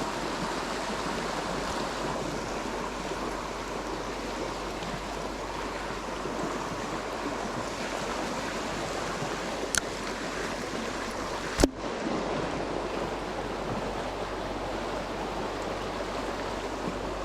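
Steady rush of flowing stream water. A faint click about ten seconds in, then one sharp knock a little later that stands out above the water.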